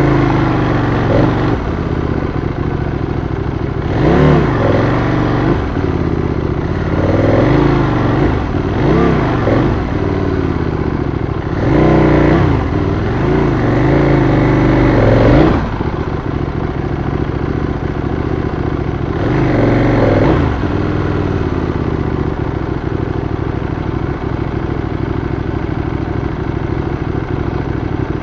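Adventure motorcycle engine running under a steady wash of riding noise, revved up and down repeatedly as the bike is ridden through slick mud, with the strongest run of revs in the middle.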